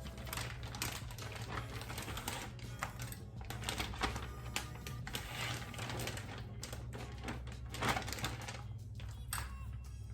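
Background music over a run of quick clicking taps: a knife trimming fat off raw chicken breasts against a cutting board.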